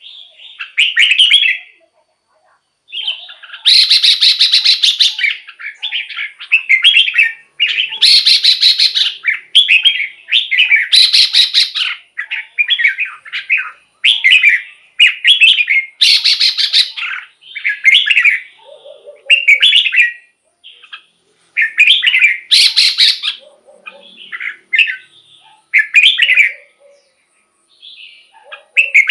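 Red-whiskered bulbul singing a rapid series of short, loud warbling phrases, each about a second or less, with brief pauses between them.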